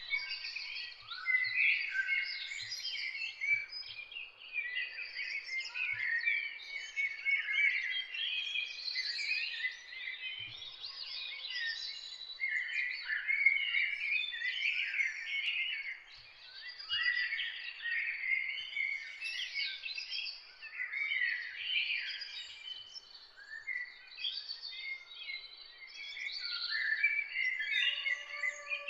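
Several songbirds singing and chirping at once, a dense, overlapping chorus of quick rising and falling notes, over a faint steady high tone. Near the end a lower, slower call glides in beneath the chorus.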